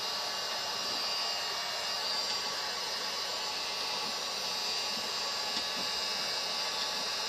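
Heat gun running with a steady blowing hiss, used to soften the faux-wood paper covering on RV cabinets so it can be peeled off.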